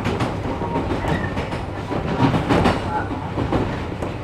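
Inside a 113 series electric train car under way: steady rumble of the running train, with wheels clacking over rail joints.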